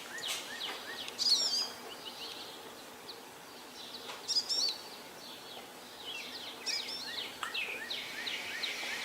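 Outdoor birdsong: several birds chirping, with quick high warbled phrases about a second in, at about four seconds and near seven seconds, over a faint steady background hiss.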